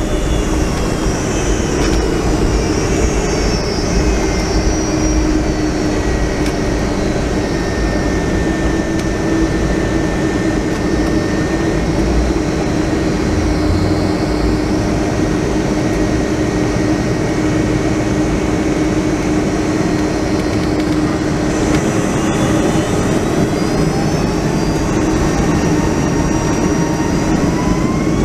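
Boeing 757-200's Rolls-Royce RB211 jet engines heard inside the cabin: a steady, loud rumble with a constant hum. About three-quarters of the way through, a whine begins rising in pitch as the engines spool up.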